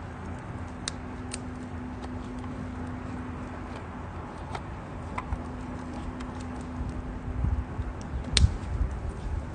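Wood campfire crackling, with scattered sharp pops and one louder pop with a thump about eight seconds in, over a steady low hum.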